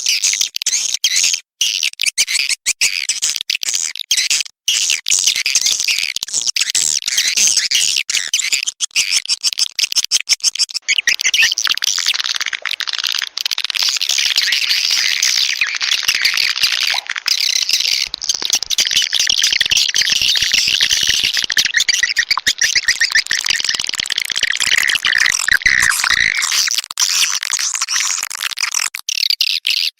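Recorded edible-nest swiftlet calls: a dense, high-pitched twittering and chattering of many swiftlets with no pause. This is a lure call, played in swiftlet houses to draw swiftlets in to nest.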